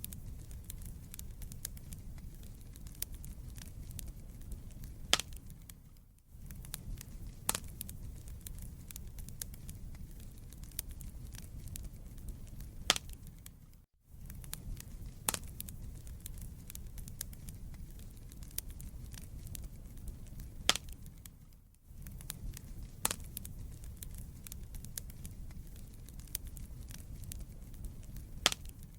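Wood fire burning in a fireplace: a steady low rumble of flames with scattered sharp crackles and pops, a few louder pops standing out. The sound drops out briefly about every eight seconds.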